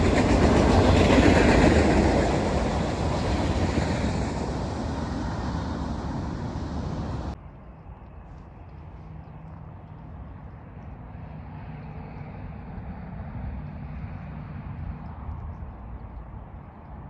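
Train passing, its loud rail noise fading as it moves away, then cut off abruptly about seven seconds in. A much quieter steady low rumble follows.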